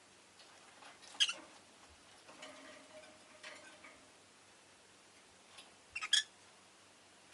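Rosy-faced lovebird giving short, sharp chirps: one about a second in and a quick pair near the end. Softer chatter comes between them.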